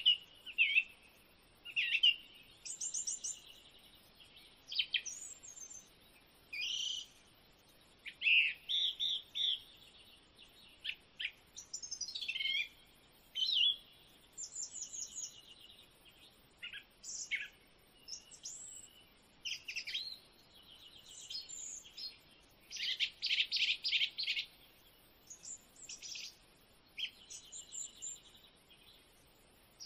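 Birds chirping and calling: many short, varied high chirps and quick trills, one after another with brief gaps, including a fast run of repeated notes a little past the middle.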